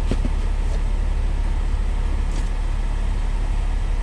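Steady low rumble of an idling semi-truck diesel engine, with a few faint clicks near the start and about two and a half seconds in.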